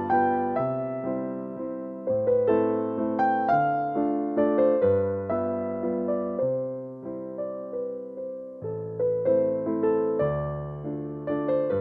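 Background music: an electric piano playing a gentle melody over chords, each note struck and fading.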